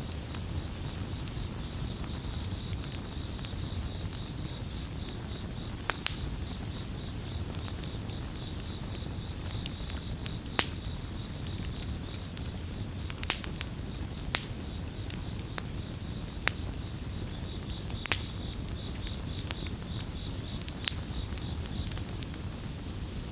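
Campfire crackling, with sharp pops scattered every second or two over a steady low rumble of burning. Crickets chirp in a steady high pulsing trill.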